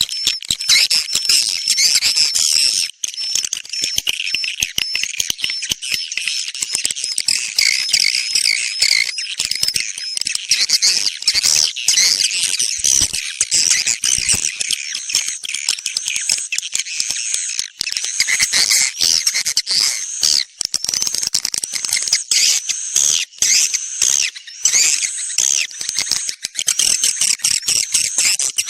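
Swiftlet lure recording: a dense, continuous chorus of high-pitched edible-nest swiftlet chirps and twitters, the kind played to draw swiftlets into a nesting house.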